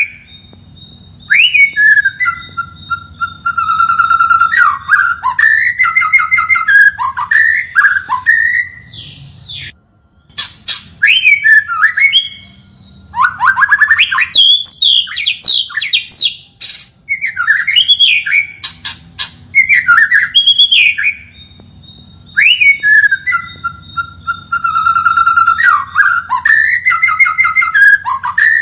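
White-rumped shama (murai batu) singing loud, varied phrases of sweeping whistles and rapid trills in bursts with short pauses between them. The same long phrase comes twice, near the start and again about two-thirds of the way in.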